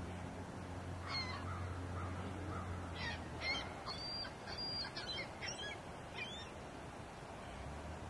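A bird calling: one short sharp call about a second in, then a quick string of falling calls from about three seconds in, over a low steady hum that stops about three seconds in.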